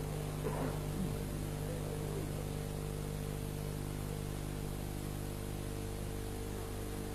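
Steady electrical hum with an even hiss from the recording's sound system, with no voice, during a pause between recited phrases.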